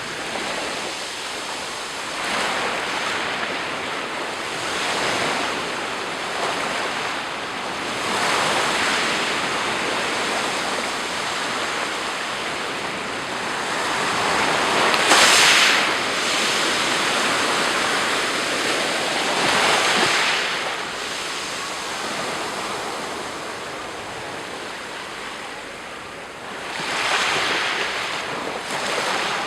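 Sea surf breaking on the shore: a continuous wash of waves rising and falling every few seconds, the biggest wave about halfway through. Wind on the microphone.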